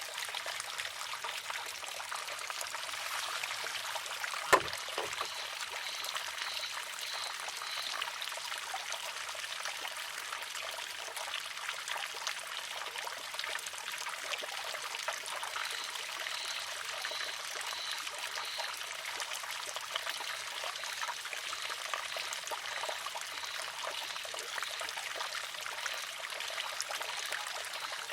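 Water trickling and splashing steadily through a wooden shishi-odoshi. About four and a half seconds in comes one sharp wooden clack as the water-filled arm tips and strikes its rock.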